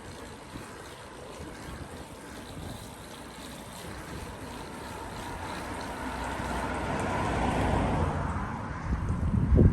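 Wind buffeting the microphone during a bicycle ride, while a vehicle passes: a rush of noise swells to a peak about eight seconds in and then fades. Gusty thumps on the microphone come near the end.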